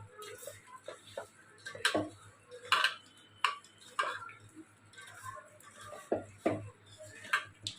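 Spoons and small kitchen dishes clinking and knocking together at an uneven pace while spices are measured out and handled.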